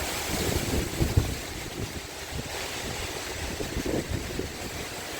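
Gusty wind buffeting the microphone in uneven low rumbles, over a steady hiss of the breeze, in the lingering winds after a hurricane.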